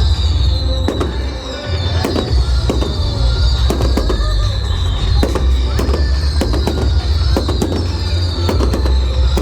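Fireworks display: many sharp bangs and crackles from bursting shells over music, with a heavy low rumble and a falling high phrase repeating about every second and a half.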